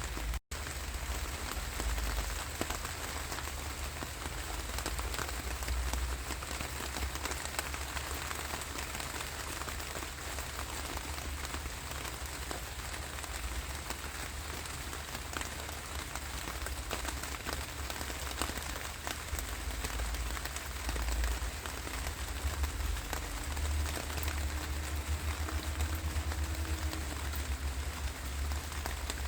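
Steady rain falling, with many small drops ticking on a surface over a low rumble.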